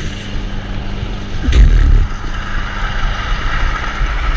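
Wind buffeting the microphone of a helmet-mounted GoPro on a moving bicycle, a steady low rumble with a louder gust about a second and a half in.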